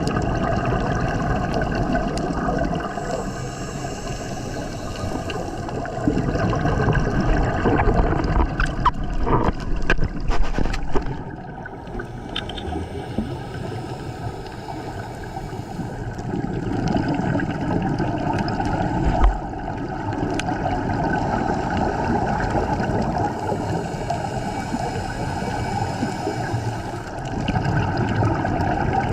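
Muffled underwater gurgling and bubbling of scuba divers' exhaled breath from their regulators, swelling and easing in waves every few seconds, over a steady hum.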